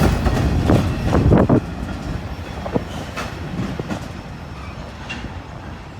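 BNSF freight train's cars rolling past, wheels clattering over the rail joints, with a cluster of heavy clunks in the first second and a half. The rumble then fades steadily as the train draws away.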